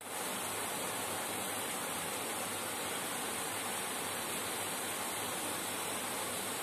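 Rain falling steadily outside, an even hiss with no change.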